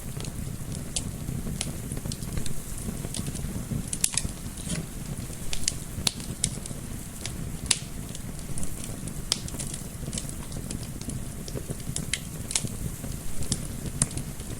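Wood fire crackling, with irregular sharp pops and snaps over a steady low rumble of flame and soft wind.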